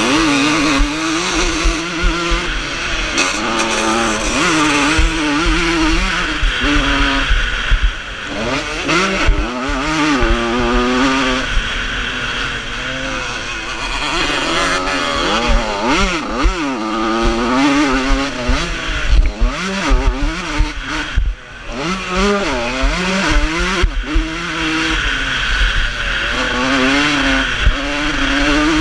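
Vintage motocross motorcycles racing on a dirt track, several engines at once revving up and down as the bikes accelerate and back off through the course, with a brief lull about three quarters of the way through.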